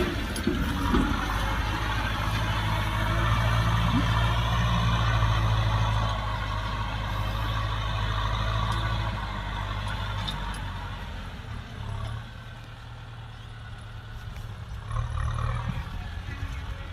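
Kubota M6040SU tractor's diesel engine running steadily. It grows quieter after about ten seconds and swells briefly again near the end.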